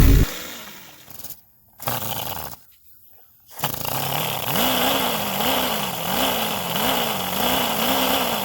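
V8 engine of a LEGO model car, LPE-powered, running. It first gives a loud blast that fades, then a short burst, then from about halfway runs steadily with a hiss, its pitch rising and falling over and over like revving. It sounds gnarly.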